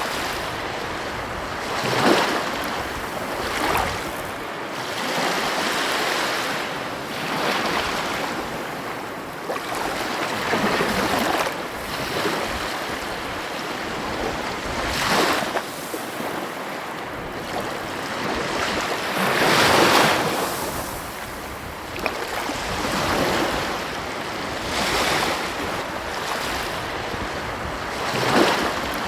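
Ocean waves breaking and washing up on a beach, swelling into a louder surge every few seconds.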